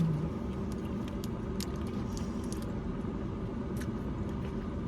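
Steady low rumble of a car, with scattered faint clicks.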